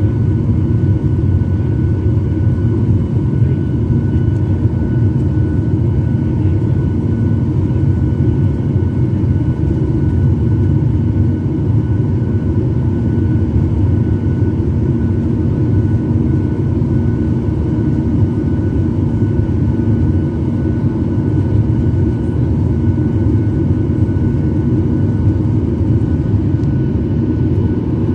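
Airliner cabin noise with the jet engines running: a steady, loud low rumble with a few faint steady tones above it.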